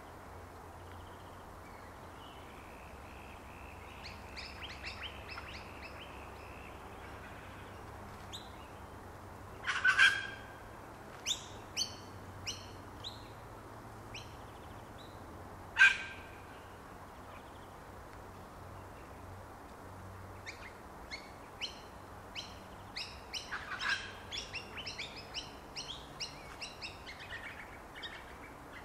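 Wild birds calling: runs of short high chirps, with two loud sharp calls about ten and sixteen seconds in.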